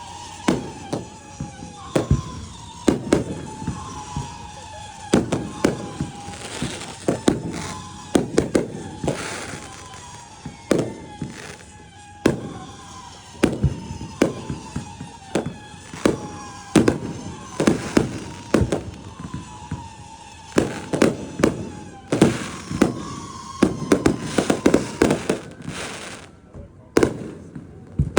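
Fireworks display: many sharp bangs and pops in quick, irregular succession, over a high whistling tone that keeps sliding slowly down in pitch. The bangs come thickest near the end.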